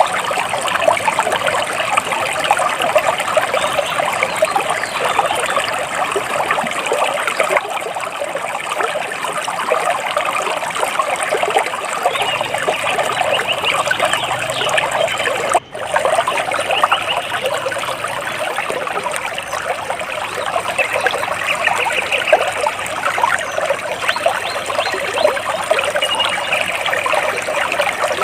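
Water splashing and trickling steadily, with a brief cut-out about halfway through.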